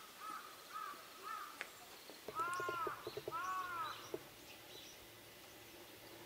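A bird calling outdoors: four short rising-and-falling calls about 0.4 s apart, then two louder, longer calls a little after two seconds in, with faint light knocks or clicks underneath.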